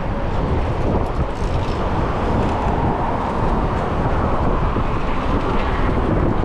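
Steady road traffic noise mixed with wind rushing over a chest-mounted action camera's microphone while cycling.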